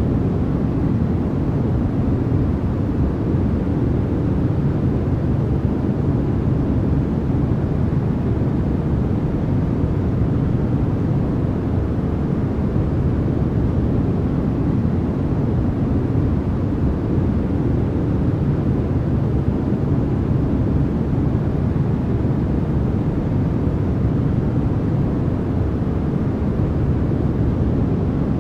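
Continuous sleep-track white noise: a steady, even rush with no changes, weighted heavily toward a deep rumble with little high hiss, closer to brown noise than to true white noise.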